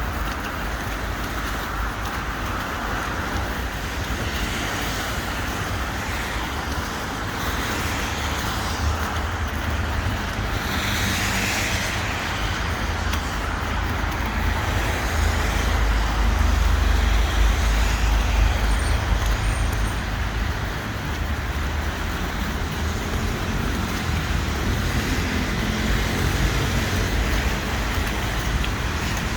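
Street traffic noise: a steady rumble of cars and other road vehicles passing, with one brighter, louder pass about eleven seconds in.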